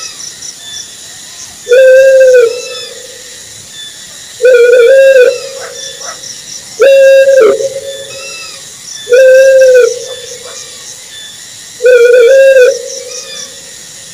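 Owl hooting: five loud hoots evenly spaced about two and a half seconds apart, each under a second long, some with a wavering break in the middle.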